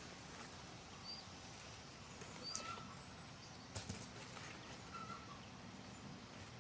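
Faint outdoor ambience with scattered short bird chirps and calls, and a couple of faint clicks.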